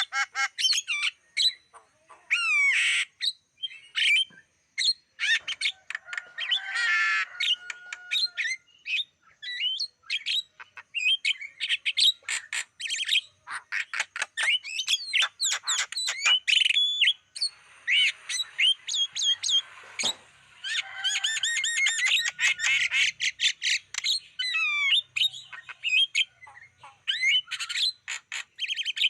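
Javan myna calling in a long, varied run of rapid chirps and whistles mixed with harsh squawks.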